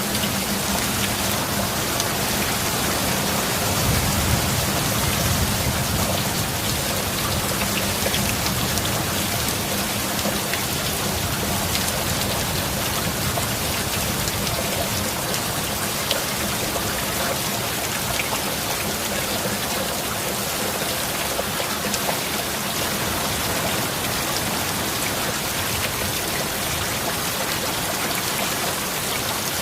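Steady heavy rain falling, with a low rumble of thunder dying away in the first few seconds.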